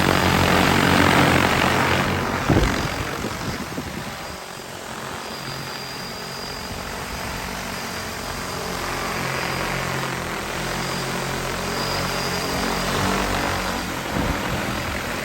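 DJI T20P agricultural spraying drone's rotors running at a steady pitch in flight. The sound is loudest in the first two seconds as the drone is close, then lower and steady. There is a brief thump about two and a half seconds in.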